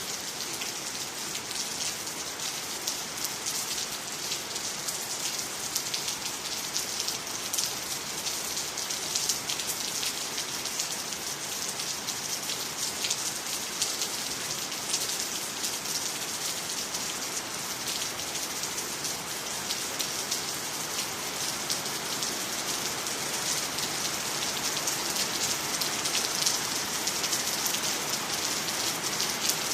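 Steady rain falling on water, trees and the ground, a dense patter of drops that grows slightly louder near the end.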